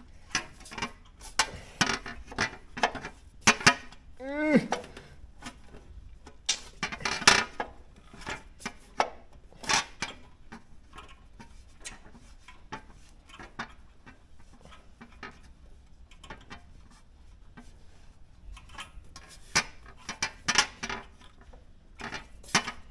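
Hand tools and metal parts clinking and knocking irregularly during work in a car's engine bay, with a short squeak falling in pitch about four and a half seconds in.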